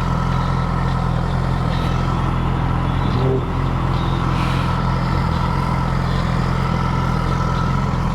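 Yamaha R6's inline-four engine idling steadily.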